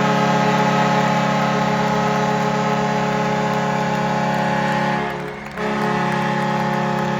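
Arena horn blaring in long, steady blasts as the game ends. A short break comes about five seconds in, then the horn sounds again.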